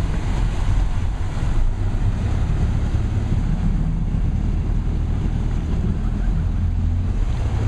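Tour boat's engine running steadily, with wind buffeting the microphone and water rushing along the hull.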